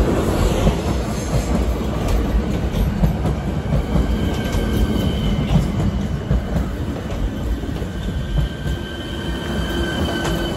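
Panter electric multiple unit rolling slowly past along the platform: a steady low rumble of wheels on rail, with a faint high whine or squeal coming in about four seconds in.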